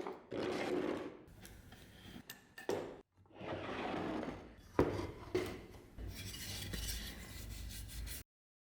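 Hand rubbing and scraping on wood, in several short bursts with a few sharp clicks between them.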